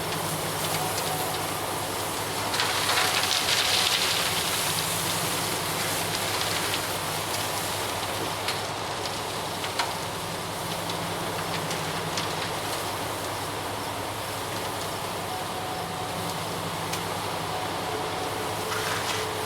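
Heavy diesel engine of a ready-mix concrete truck running steadily, with a louder hissing rush about three seconds in and a few faint clicks.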